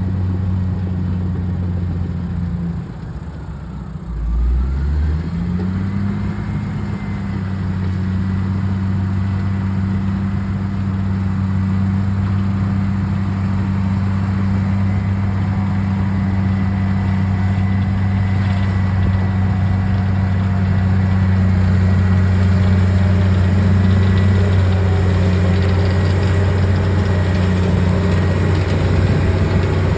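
Komatsu D65PX-16 bulldozer's six-cylinder diesel engine running steadily. About three seconds in, the engine speed dips briefly, then picks up again and runs on at a steady pace with a faint high whine.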